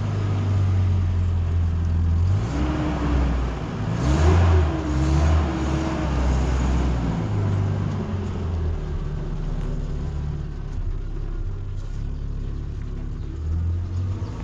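Car engine running just after starting, its low hum rising and falling in pitch as it revs a few seconds in, then settling to a steadier run.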